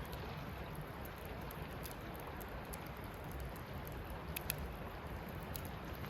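Wood campfire burning with a steady low rush of flame and a few sharp crackles and pops, a small cluster of them about four and a half seconds in.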